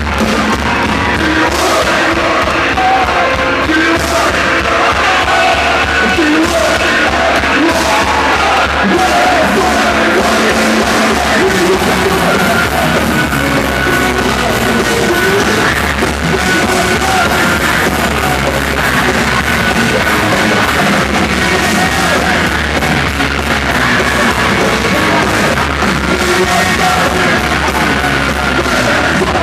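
Live rock band playing loud and distorted, with shouted singing over driving guitars, bass and drums, as heard from a live recording.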